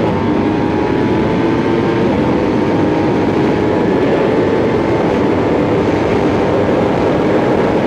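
Sport bike engine pulling steadily while riding, its note climbing slowly, dipping once about two seconds in as it shifts up a gear, then climbing again, under a steady rush of wind noise on the microphone.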